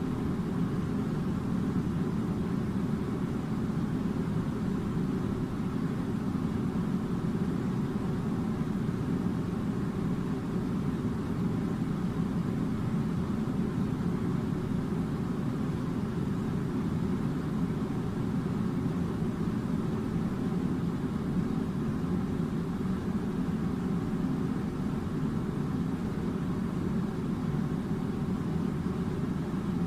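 Air conditioning unit running: a steady low rumbling hum with no change throughout.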